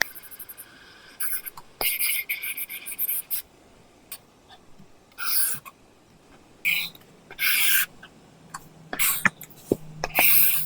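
Apple Pencil sketching on an iPad screen fitted with a paper-texture film: separate short scratchy strokes of different lengths, with light taps of the pencil tip between them. A faint low hum comes in about two-thirds of the way through.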